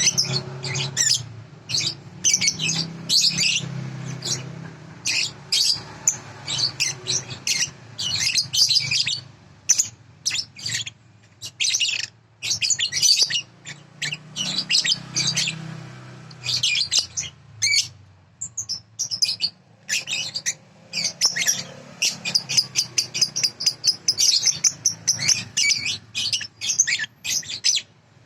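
Balibu songbird singing a fast, high-pitched chattering song of rapid chirps in phrases with short pauses, played as a masteran tutor song for young lovebirds. A faint low hum runs underneath.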